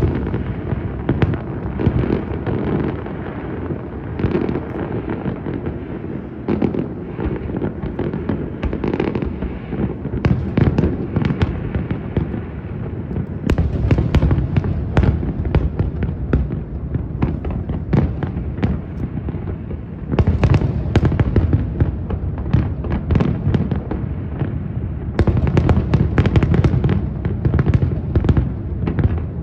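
A fireworks display: a rapid, continuous barrage of shell bursts and sharp crackling reports heard from across the water. It swells into thicker clusters of bangs several times.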